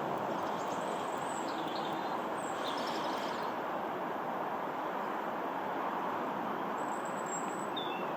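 Steady, even roar of a distant high-altitude jet aircraft, with a few short bird chirps over it.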